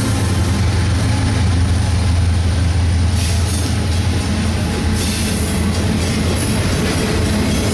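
Diesel-hauled freight train passing close by, a steady heavy locomotive engine drone over rolling rail noise.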